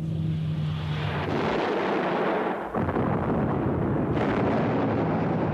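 A plane's engine drone giving way to a long explosion and crashing roar: the sound of an aircraft crashing onto a house.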